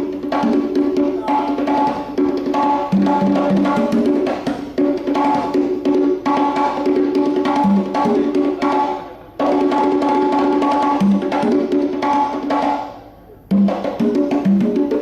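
Fast drumming over backing music with held chords. The playing drops out briefly about nine seconds in and again near the end, then picks up again.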